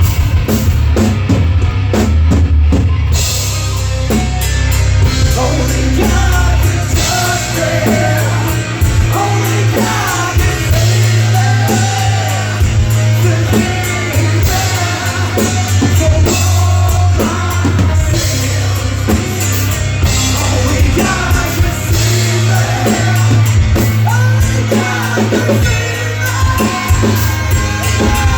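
Live heavy rock band playing at full volume: distorted electric guitars, bass and a pounding drum kit, with a singer's vocals over them.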